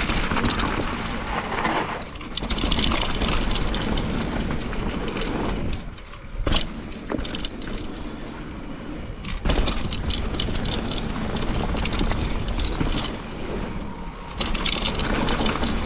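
Mountain bike riding down a wet, rooty trail: continuous tyre and rattling noise that rises and falls, with a couple of sharp knocks from impacts midway.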